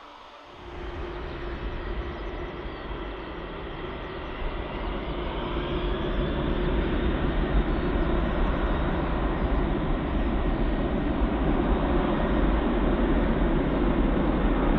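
Jet airliner engines roaring, starting suddenly about half a second in and growing louder over several seconds, with a deep rumble and a faint rising whine.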